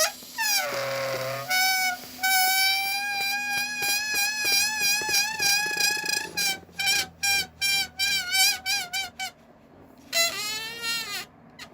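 Air let out slowly from an inflated rubber balloon through its stretched neck, squealing. A long high whine with a wavering pitch breaks up after about six seconds into a run of short sputtering squeaks, and a last squeal near the end falls in pitch.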